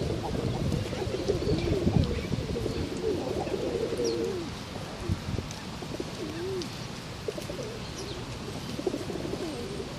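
Pigeons cooing repeatedly in low, rounded phrases, with a few short high chirps from small birds over the top.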